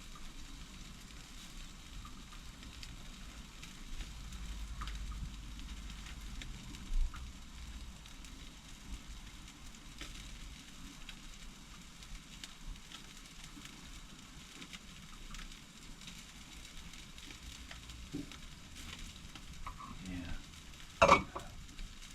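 Jerk chicken sizzling over an open barbecue fire, a steady hiss with small crackles. There is one sharp knock about a second before the end.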